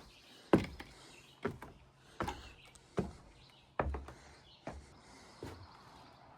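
Footsteps of a person walking at an easy pace, seven evenly spaced steps.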